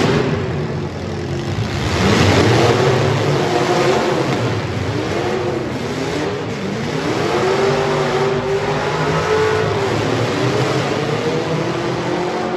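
Engines of several full-size demolition derby cars revving up and down at once, their overlapping pitches rising and falling every second or two.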